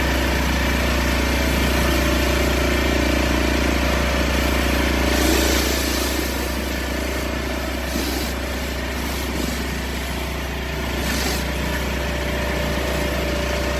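Westinghouse WPX3400 pressure washer's 212cc four-stroke OHV engine running steadily, with a few short bursts of hiss about five, eight and eleven seconds in.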